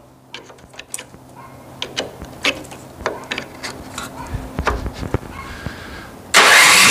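A few light clicks and knocks of handling, then near the end the Craftsman two-stage snowblower's small engine starts on its electric starter and runs loudly and steadily.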